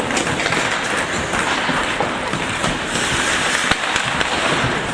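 Ice hockey skates scraping and carving on the ice in a steady rasp, with a few faint knocks of sticks or the puck.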